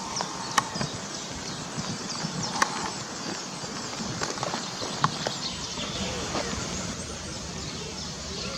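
Small birds chirping and twittering in the background over steady outdoor noise, with three sharp clicks or knocks: about half a second, two and a half seconds and five seconds in.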